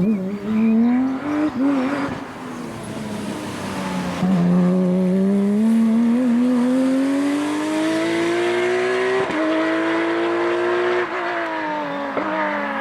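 Race car engine under hard acceleration, its pitch climbing steadily with quick upshifts about nine and eleven seconds in, then dropping and blipping as the driver lifts and shifts down near the end.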